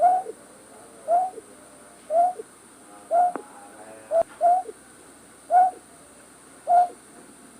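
A night bird's call, played as a trapping lure: a short, slightly falling note repeated about once a second, eight times. There is a sharp click about four seconds in.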